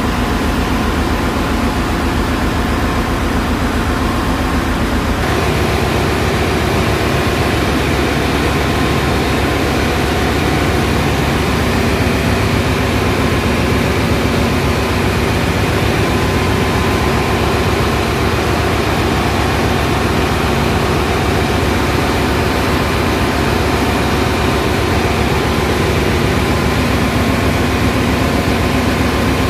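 Ship's engine-room machinery running: a loud, steady drone with several constant hums over a dense hiss. The mix changes slightly about five seconds in, then holds steady.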